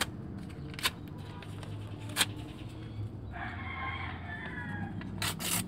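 A rooster crows once, about three and a half seconds in, with a few sharp clicks scattered around it.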